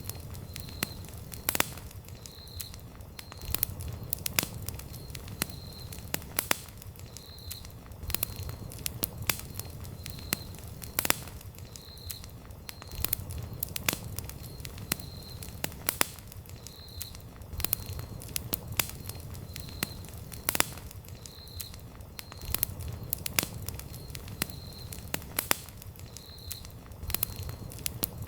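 Wood campfire burning, with sharp irregular crackles and pops over a low steady rumble of the flames. A faint high-pitched chirp repeats about once a second throughout.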